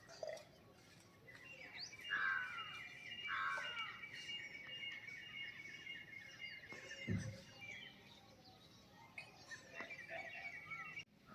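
Birds calling: a long, fast chattering trill with several shorter falling calls over it, and another trill near the end. A short low sound falls away about seven seconds in.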